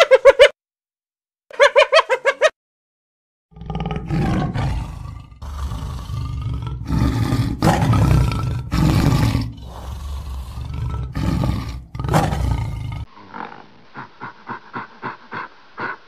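Spotted hyena giving two short bouts of rapid, pitched giggling calls, then a tiger growling and roaring for about nine seconds. Near the end the roaring stops and a quieter rapid run of short grunts follows.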